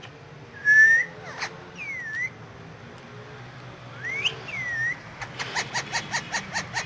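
Indian ringneck parakeet whistling: a short rising whistle, then dipping and rise-and-fall whistles. It then breaks into a rapid run of short clicking chirps, about six a second.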